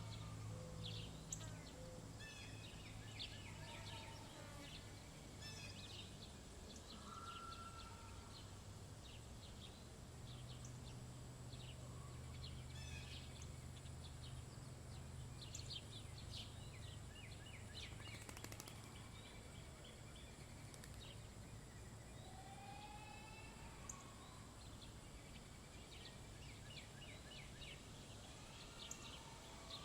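Several small songbirds chirping and calling, with short chirps scattered throughout and a few whistled phrases, one a rising series of notes around two-thirds of the way in. A faint low steady hum runs underneath.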